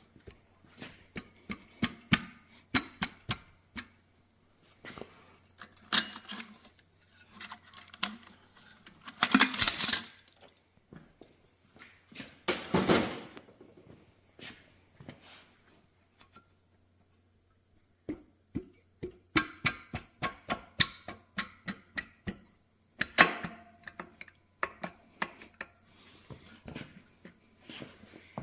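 Metal engine parts clinking and clicking as they are handled during hand assembly of the cylinders and pistons of an air-cooled Porsche 912 engine. About a third of the way in come two rasping noises, each about a second long, followed by a short lull.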